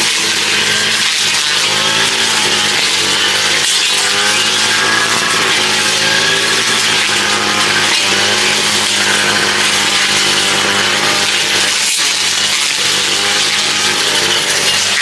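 A small engine running steadily, its pitch wavering slightly up and down.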